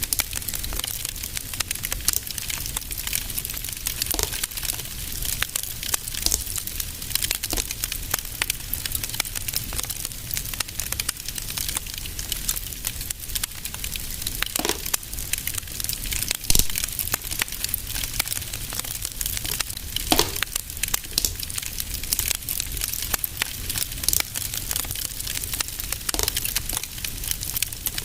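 Wood fire in a fireplace crackling steadily, with a few louder sharp pops scattered through, over a low steady rumble.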